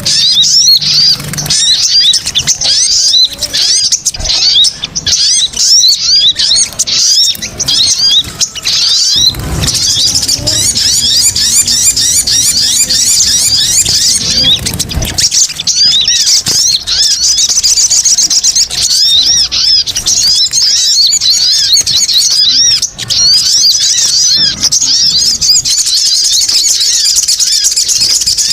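Bird-lure call of small birds: a dense, continuous chatter of rapid high chirps, many overlapping.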